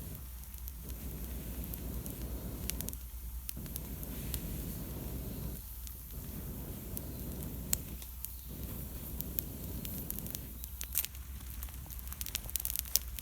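Long, steady blows of breath through a fire-blowing pipe into a campfire of wet wood, about five in a row, each lasting a couple of seconds with a short pause between for breath. Small crackles and snaps come from the fire throughout and grow more frequent near the end.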